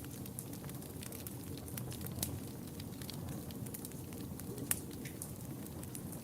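Wood fire burning in a fireplace: a steady low rumble with frequent small crackles, a sharper pop about two seconds in and a louder pop late on.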